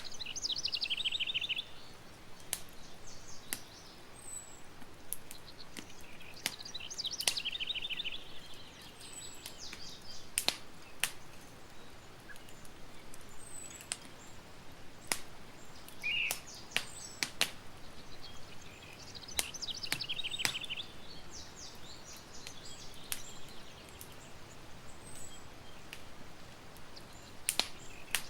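Campfire crackling, with sharp pops at irregular intervals over a steady low hiss. A bird sings a short trilled phrase in the background, repeated four or five times.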